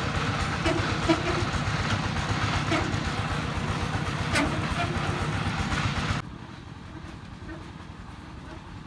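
Single-cylinder D22 diesel engine of a công nông farm truck running with a rapid, steady chugging. The sound drops abruptly to a much lower level about six seconds in.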